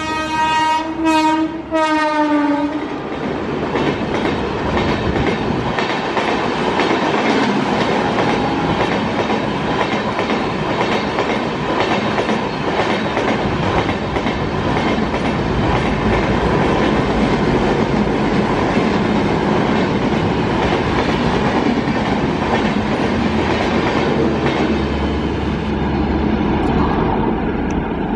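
Indian Railways train horn, several tones sounding together, broken by short gaps and ending about three seconds in. Then the steady running noise of a train on the rails, with wheels clicking over the rail joints; the high end fades away near the end.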